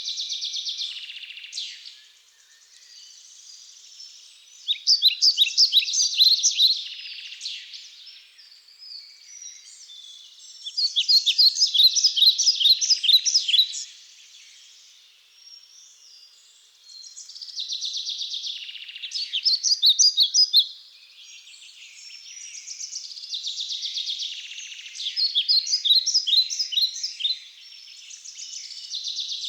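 A songbird singing a song of rapid high notes, each about three seconds long and repeated every six seconds or so, with fainter bird calls in between.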